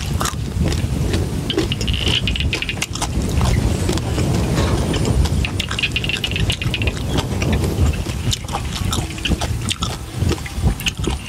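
Close-up chewing of crunchy papaya salad and fried pork, with many small crunches and mouth clicks. A steady low rumble of wind on the microphone runs underneath.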